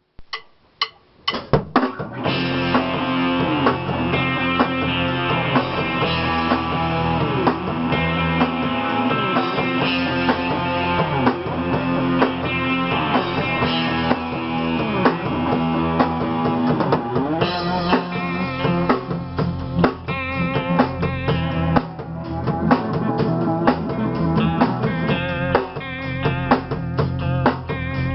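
Rock music played on guitars, bass and drum kit, starting after a few sharp clicks in the first two seconds, with bending guitar notes over a steady beat.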